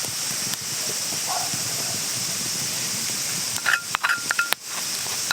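A steady high hiss throughout, with a quick run of small clicks and short ringing clinks about four seconds in.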